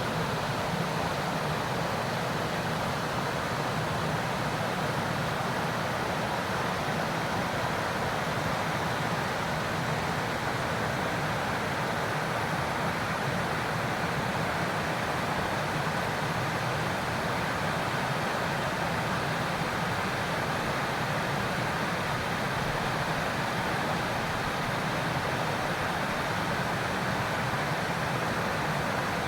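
Waterfall crashing into its pool: a steady, unbroken rush of falling water.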